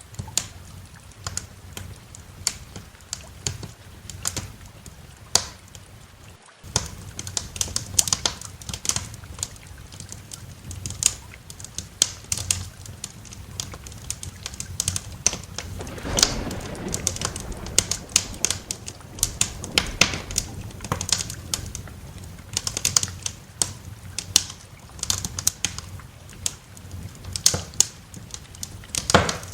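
Wood fire crackling in a fireplace, with frequent irregular sharp pops and snaps over a low steady background. The sound breaks off briefly about six seconds in, and a low rumble swells and fades around the middle.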